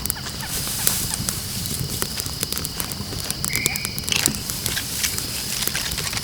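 Campfire crackling with scattered sharp pops over a steady high trilling of night insects, with one short high call about three and a half seconds in.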